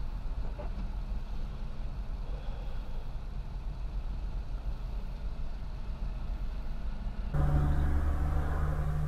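Low, steady rumble of a car idling, heard from inside the car. About seven seconds in it switches abruptly to a louder, steadier engine and road hum of a car driving.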